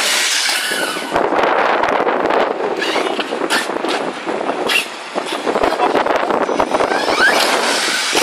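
Wind buffeting the microphone: a loud, continuous rushing noise with irregular low thumps.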